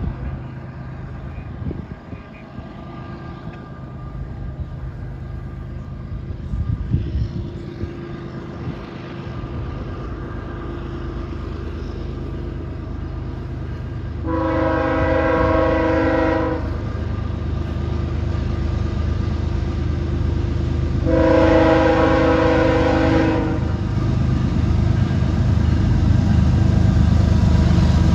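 Approaching CSX double-stack intermodal train: the lead diesel locomotive's rumble grows steadily louder, and its air horn sounds two long chord blasts, one about halfway through and one about three quarters of the way through, each lasting about two seconds.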